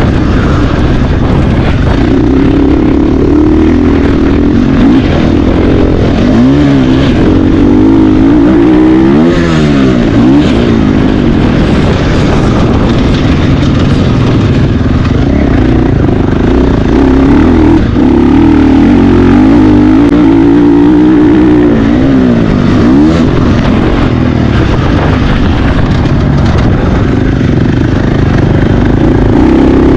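Motocross motorcycle engine running loud and hard, its pitch repeatedly climbing and dropping as the throttle is opened and chopped. A dense low rumble lies underneath.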